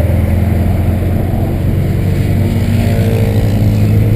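Volkswagen Santana's 2.0 AP inline-four petrol engine running steadily while the car cruises, a low even drone with road noise.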